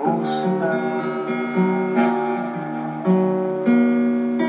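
Acoustic guitar playing the closing bars of a song: plucked notes and chords every half second to a second, each ringing on.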